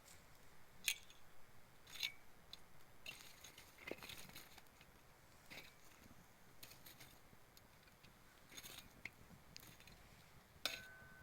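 Campfire of gathered natural wood crackling faintly, with scattered sharp pops and snaps at irregular intervals and a brief ringing tone after a snap near the end.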